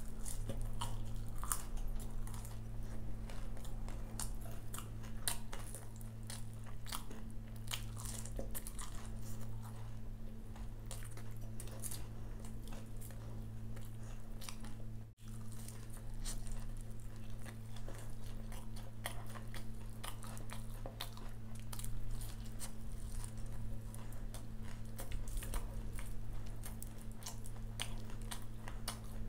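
Close-up biting and chewing of crispy fried pakoda fritters, with many short crisp crunches. A steady low electrical hum runs underneath, and the sound cuts out for an instant about halfway.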